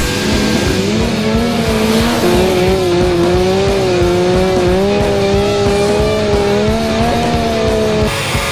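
Tires squealing in a long, sustained drift over engine noise, with a wavering pitch that stops abruptly about eight seconds in. Rock music plays underneath.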